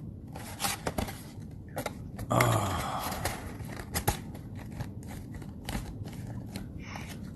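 A sealed trading-card hobby box being cut and torn open: a string of sharp snips and clicks, with a longer tearing rustle about two seconds in.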